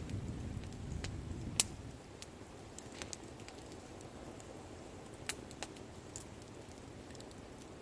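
Wood bonfire crackling, with scattered sharp pops; the loudest comes about a second and a half in and another about five seconds in. A low rumble under the crackle dies down about two seconds in.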